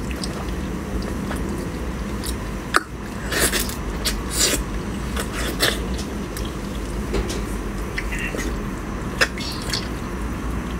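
Close eating sounds of someone biting, tearing and chewing soft braised pork knuckle meat and skin, with scattered short mouth clicks and brief bursts. A steady low rumble runs underneath.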